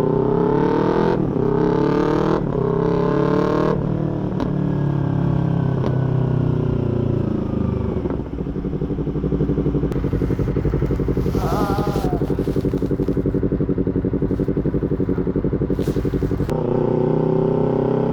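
A small parallel-twin sport motorcycle with a full aftermarket exhaust accelerates hard, its revs climbing and breaking at quick upshifts about once a second. The revs then fall away as it slows, and it runs for several seconds at low, steady revs with an even pulsing note. Near the end it pulls away again.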